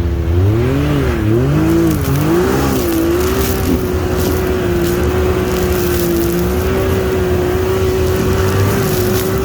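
Side-by-side UTV engine in low range climbing a steep snowy hill: the revs rise and fall unevenly for about three seconds, then hold steady and high under load.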